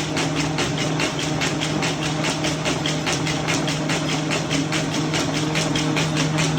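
A machine running steadily: a constant low hum with rapid, evenly spaced clicking, about five clicks a second.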